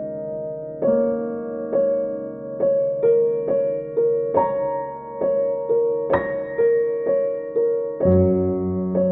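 Background piano music: single notes struck about twice a second over sustained chords, with a deeper bass note coming in near the end.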